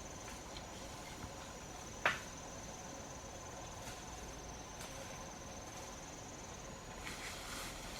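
Crickets chirping in a steady, fast high-pitched trill, with one sharp knock about two seconds in and some soft rustling near the end.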